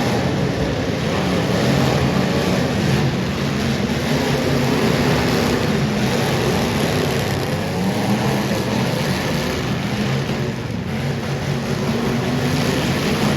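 Super Stock race car engines running hard on a dirt track, their pitch rising and falling as they rev and lift through the laps.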